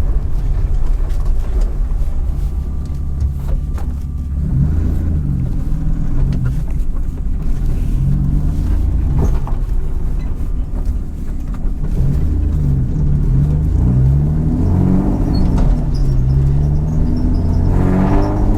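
BMW M50B25 2.5-litre straight-six running through Schmiedmann stainless headers and a 3-inch stainless, nearly straight-piped exhaust, with a loud, deep exhaust note. The car is driven with the engine pitch rising and falling several times as it accelerates and lifts off.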